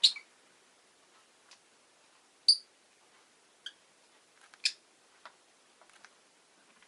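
Rosy-faced lovebird giving a few short, sharp chirps a second or so apart. The loudest comes right at the start and another about two and a half seconds in, with fainter ticks between.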